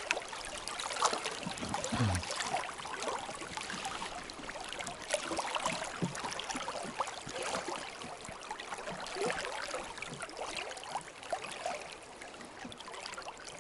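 River water flowing over stones, a steady babbling rush full of small splashes.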